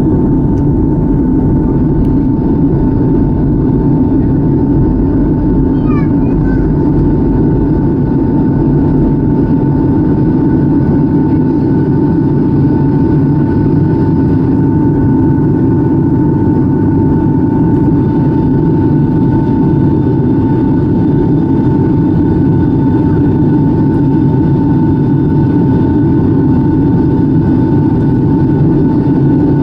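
Boeing 757-200 jet airliner's engines and airflow: a loud, steady drone with a steady whine over it.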